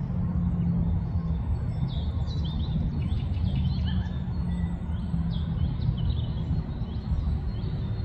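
Many short, high bird chirps from small birds scattered throughout, over a steady low background rumble.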